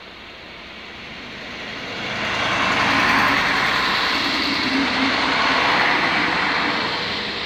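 Regional passenger multiple-unit train passing close by at speed, its wheels rolling on the rails. The rushing sound builds, is loudest for a few seconds as the train goes by, then fades near the end.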